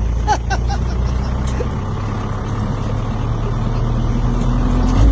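Truck engine running at low speed: a steady low drone, with a tone that rises slowly over the last second or two as it picks up a little.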